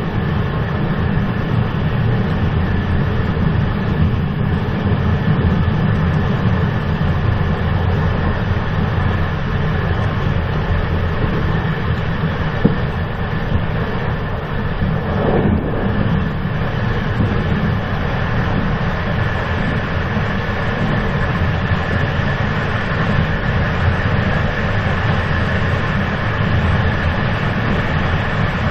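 Steady rumble and hiss of a moving train, with a faint steady high whine over it and a single sharp click about 13 seconds in.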